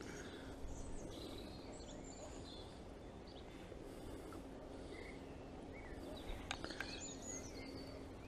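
Small birds chirping and calling now and then over a steady outdoor background hiss, with a few faint clicks about six and a half seconds in.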